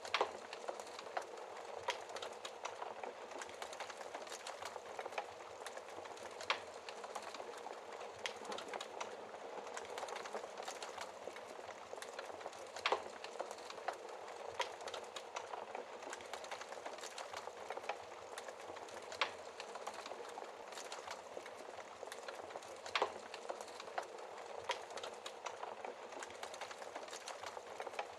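Wood fire crackling in a fireplace: a steady hiss and flutter of flames with frequent sharp pops and snaps at irregular intervals.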